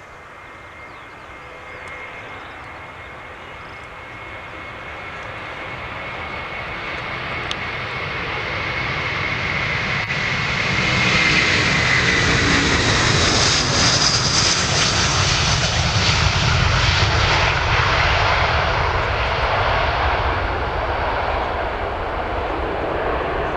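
Twin jet engines of a MASkargo Airbus A330-200F freighter at takeoff power, passing by. The engine noise swells over about ten seconds to its loudest as the aircraft goes past, then eases a little. A high fan whine drops in pitch as it passes.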